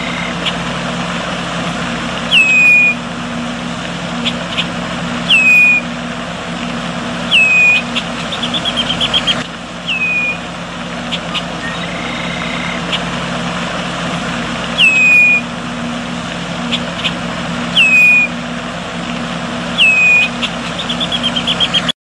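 A bird calling again and again: a short, clear note that drops in pitch and then levels off, every two to three seconds, with a couple of quick trills of rapid notes in between, over a steady low hum.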